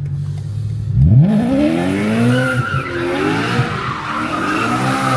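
A car engine idling, then about a second in revving sharply up and holding high, wavering revs while the tyres squeal: a burnout.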